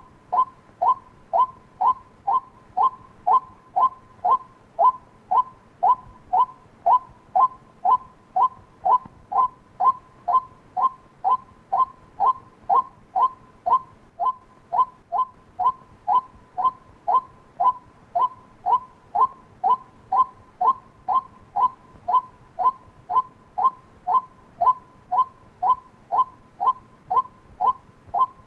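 White-breasted waterhen call, one short 'kwak' note repeated evenly about twice a second without a break.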